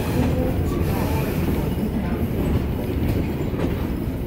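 Heritage passenger train rolling along the track, heard from aboard a coach: a steady rumble of wheels on rail.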